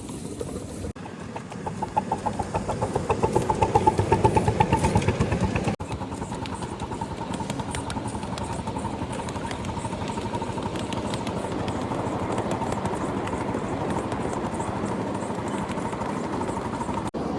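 Small live steam locomotive chuffing in rapid, regular exhaust beats that grow louder over a few seconds, then running steadily along the track with a constant rhythmic beat.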